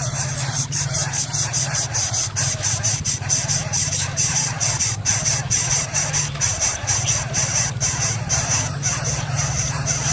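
Coucal nestlings begging: a rapid, raspy squealing series of about six pulses a second that runs on without a break, over a steady low hum.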